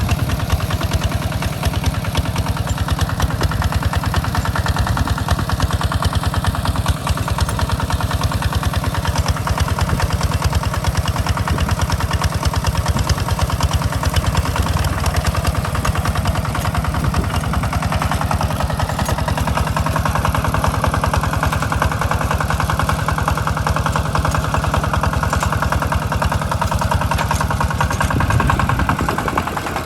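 A two-wheel walking tractor's diesel engine running steadily while plowing a rice field, with rapid, even firing pulses.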